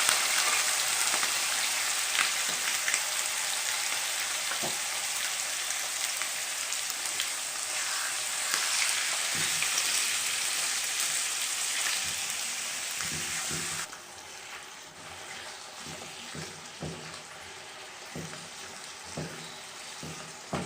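Finely cut liver, still partly frozen, sizzling hard in hot oil in a frying pan with a loud, even hiss that slowly eases. About 14 seconds in it drops suddenly to a quieter sizzle with a few soft knocks.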